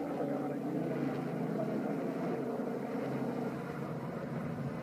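Helicopter in flight: a steady drone of engine and rotor.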